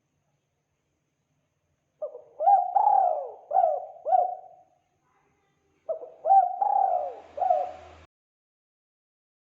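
Spotted dove (tekukur) cooing: two phrases of several quick rising-and-falling coos, each about two seconds long, with a pause between them. The second phrase cuts off abruptly.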